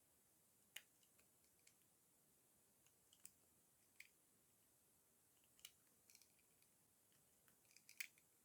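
Dry soap being crushed, crunching in sparse, crisp crackles a second or more apart, with a quick cluster of them near the end.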